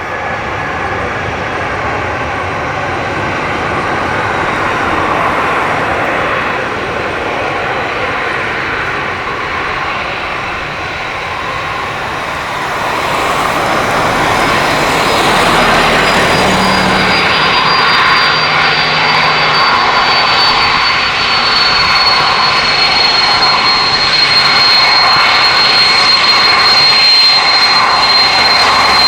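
Jet engines of a Boeing 767-200 airliner on its landing approach, a steady engine noise slowly growing louder. From about halfway through, a high fan whine rises above it and slides slowly down in pitch.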